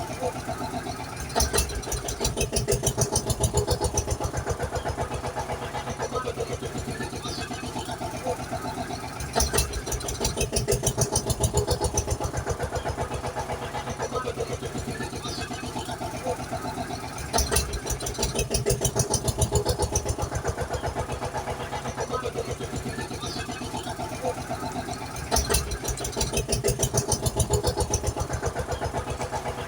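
Looped tractor engine sound effect. About every eight seconds it starts with a sharp crank, runs louder for about three seconds, then settles into a steady, quieter chugging idle.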